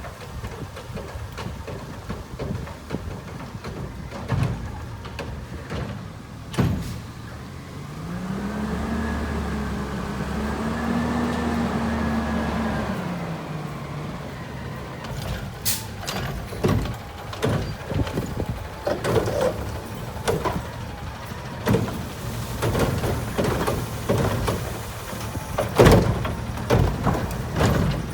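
Garbage truck with a Curotto-Can cart arm: the engine revs up and holds for several seconds, powering the hydraulics, then drops back. Then comes a long run of irregular bangs and knocks as the cart is tipped and heavy yard waste falls into the hopper.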